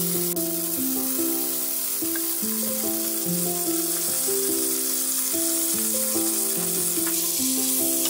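An egg and tomato sizzling steadily in hot butter in a frying pan, under background music of slow, held notes.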